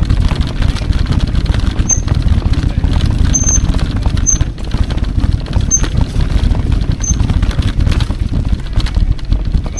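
Riding rumble and wind buffeting on the camera microphone of an electric mountain bike moving along a trail. Short high-pitched squeaks come through now and then.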